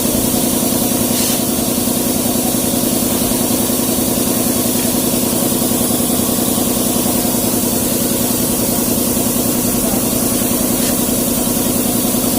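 Hino truck diesel engine idling steadily.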